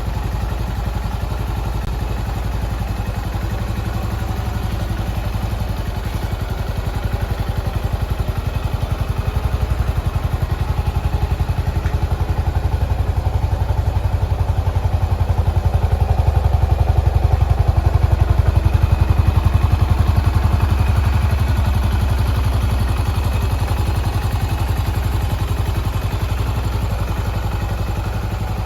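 Yamaha SR400's air-cooled single-cylinder engine running steadily with a fast even pulse, getting somewhat louder through the middle stretch and easing back near the end.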